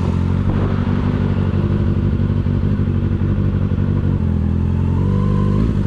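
A 2009 Kawasaki ZX-6R's inline-four engine idling steadily, heard from the rider's seat. Its revs rise a little near the end.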